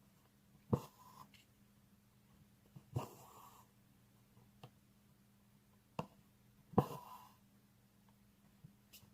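Embroidery needle punching through fabric stretched in a hoop with a sharp tap, then single-strand thread pulled through with a short rasp. The stitches repeat every two to three seconds.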